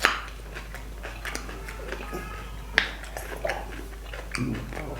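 A person chewing food close to the microphone, with small wet mouth clicks and crunches and one sharper click about three seconds in.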